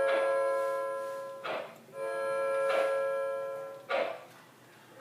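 Model steam locomotive's sound system blowing a multi-chime steam whistle: the end of one long blast, then a second long blast, the signal for moving off. Short steam chuffs about once a second follow as the engine begins to pull away.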